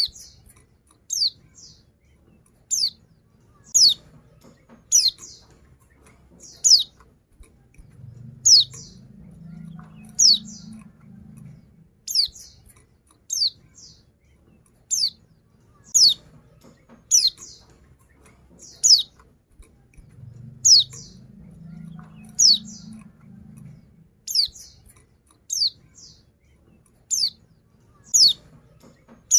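Female white-eye (pleci) calling, as a female calls to a male: short, high chirps that slide downward, repeated about once every second and a half.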